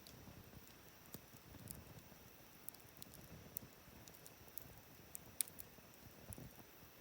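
Wood fire burning: faint, scattered crackles and pops over a soft low rush, the sharpest pop about five seconds in.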